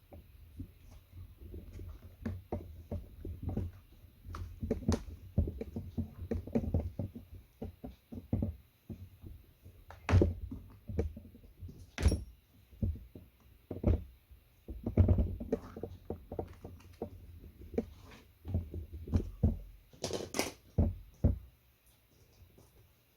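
Irregular knocks, thunks and clatters of hands handling and working on a JBL Authentics 500 speaker's housing and parts, with a few sharper clicks.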